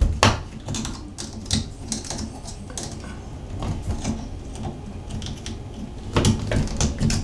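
Irregular small metal clicks and taps as the retaining pin is worked back into a Moen shower valve cartridge, with a louder cluster near the end.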